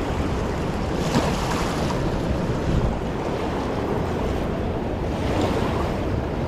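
Steady, loud rushing of a fast, swollen river, with wind buffeting the microphone.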